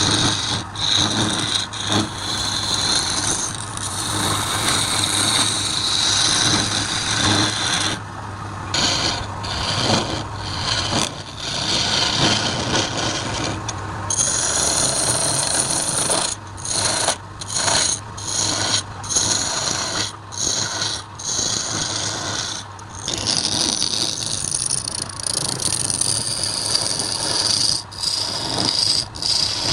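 Wood lathe running with a turning tool scraping against the spinning wood, a steady rasping cut over a low motor hum. The cut breaks off briefly many times, more often in the second half.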